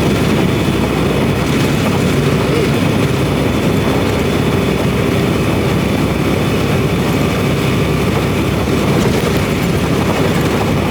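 Semi truck's engine and road noise heard inside the cab while driving: a steady, even drone.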